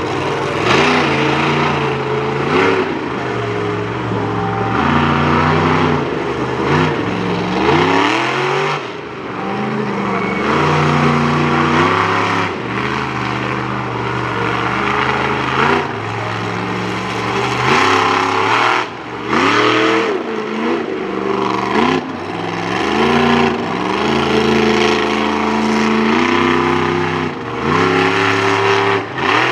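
Monster truck engine running hard and revving up and down repeatedly, holding one speed for a second or two and then jumping or gliding to another.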